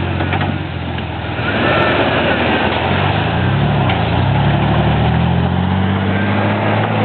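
Off-road 4x4 truck engine revving as it drives through a muddy creek; the pitch dips and rises about three to four seconds in, then climbs slowly and steadily.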